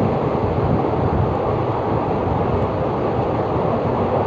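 Train running: a steady, loud rumbling noise that does not let up.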